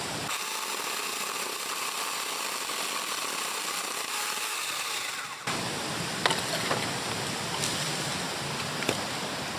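Battery-powered saw cutting firewood. It runs with a steady motor whine for about five seconds, then gives a rougher, grinding sound with a few sharp knocks as it works through the wood.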